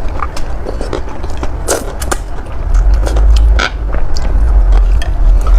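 Close-miked eating sounds of a person chewing noodles: scattered wet mouth clicks, with a heavy low rumble coming in about halfway through.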